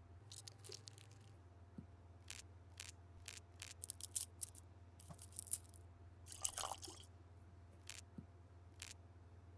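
Faint, irregular sharp clicks and taps, a dozen or more, with a brief cluster about six and a half seconds in, over a steady low hum.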